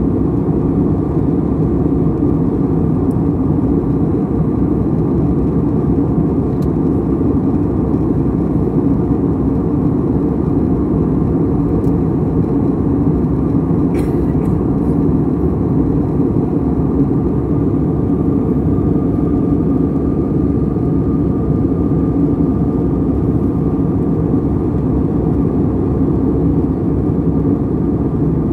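Steady cabin noise of a jet airliner in flight: the even, unchanging sound of engines and rushing air heard from inside the cabin, with one faint click about halfway through.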